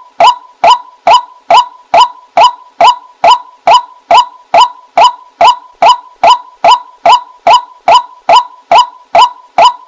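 White-breasted waterhen call, a lure recording repeating short, identical notes at a steady pace of about two and a half a second.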